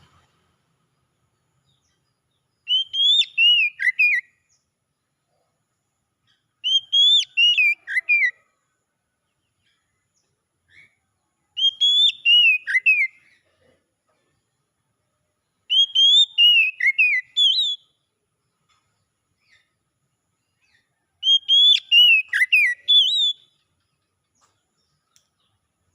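Oriental magpie-robin song: a short phrase of quick, clear whistled notes that swoop up and down. The same phrase is repeated five times, every four to five seconds, with silence in between.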